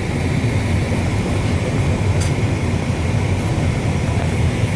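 Steady cabin noise inside a Boeing 757 being pushed back: a low rumble with an even rush of air and a steady high hum, and one faint tick about two seconds in.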